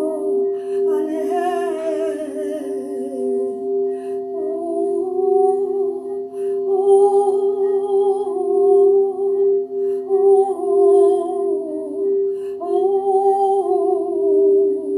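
Singing bowls ringing in steady, pulsing tones while a voice sings a wordless, wavering melody over them, pausing briefly a few times.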